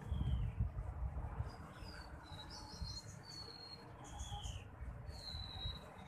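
Parent sir-sir birds calling from the nest tree: about ten short, high whistled chirps, several of them sliding down in pitch, with a quick cluster near the middle. A low rumble on the microphone is strongest in the first second.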